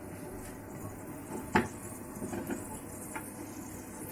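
Tableware being handled: one sharp knock about one and a half seconds in, then a few lighter clicks and clinks.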